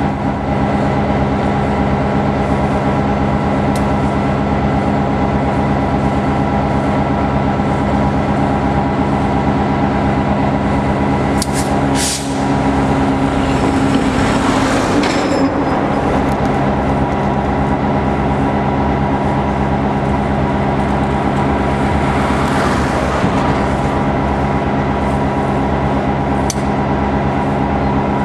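Diesel locomotive engine running at a steady idle, with a brief rushing noise about halfway through and a few sharp clicks.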